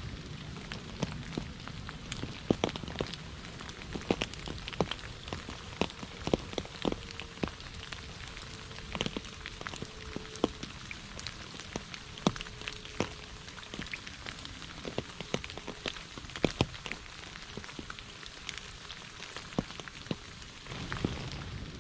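Heavy rain falling: a steady hiss of rainfall with many sharp, irregular ticks of individual drops striking a surface close by.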